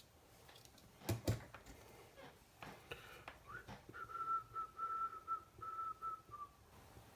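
A person whistling a simple tune through the teeth or lips: a clear high note held in short phrases with small steps in pitch, starting about halfway through. Two sharp knocks about a second in.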